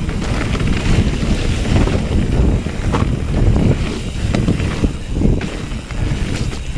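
Wind buffeting the microphone of a camera on a Bird Zero 29 hardtail mountain bike ridden at speed down a trail, over a steady rumble from the tyres, with short knocks and rattles from the bike here and there.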